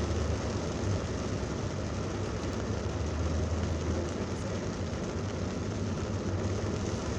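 Steady road noise inside a moving car: a low drone from the engine and tyres with an even hiss over it.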